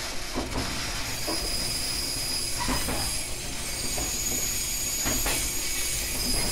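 JR West 123 series single-car electric train running, heard from on board: a steady low rumble, with the wheels clicking over rail joints at irregular intervals, some in quick pairs. A steady high-pitched wheel squeal runs over it.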